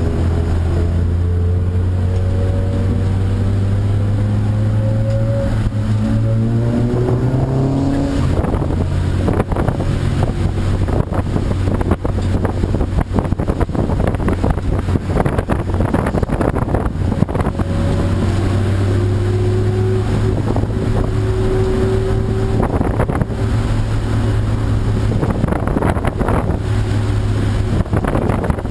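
Race car engine running, its pitch rising a few times, with a long stretch in the middle where wind noise on the microphone takes over.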